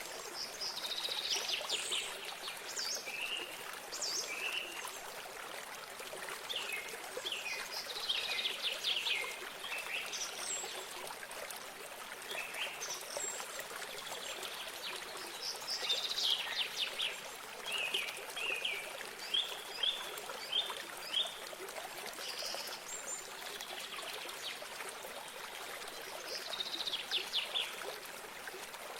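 Small birds singing in short phrases of chirps and trills over the steady rush of running water, with a quick series of single chirps in the middle.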